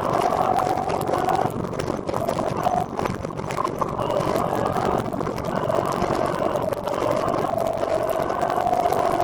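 Continuous road and wind noise from riding a recumbent trike, with a steady whine that wavers slightly in pitch.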